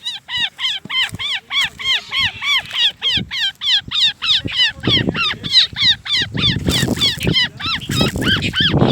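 A bird giving a rapid, unbroken string of harsh alarm calls, about four to five a second, as it defends its chick. Lower, noisier sounds come in about five seconds in and again near the end.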